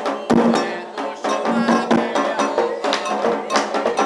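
Candomblé ceremonial music: drums and percussion beaten in a fast, dense rhythm with sharp strokes several times a second over sustained pitched sound.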